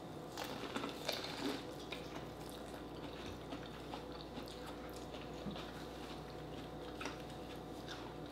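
Corn on the cob being bitten and chewed. Soft, scattered crunches and chewing sounds, busiest in the first second and a half, with another crunch about seven seconds in.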